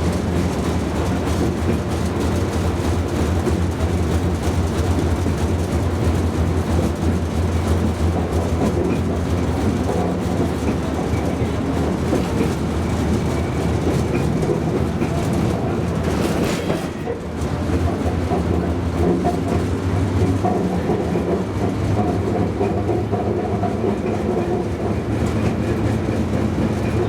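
A St Petersburg tram running along its line: a steady hum of motors and wheels on the rails. About two-thirds of the way through there is a brief hiss and a short dip in level.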